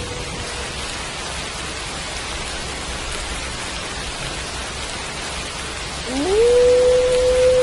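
Steady rain with a wolf howling. The end of one howl falls away and fades in the first moment. About six seconds in, a new howl rises in pitch and then holds one long steady note.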